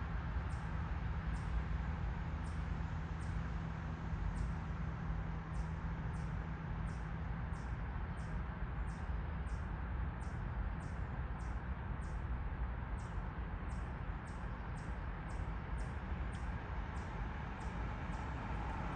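Baby bird chirping repeatedly: short, high cheeps, about one or two a second, over a steady low hum.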